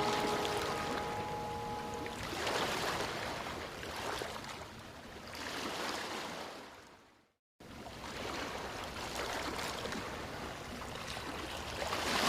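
Running water rushing steadily, swelling and easing every couple of seconds, under a few held music notes that die away in the first two seconds. The sound cuts out completely for a moment a little past the middle, then the water resumes.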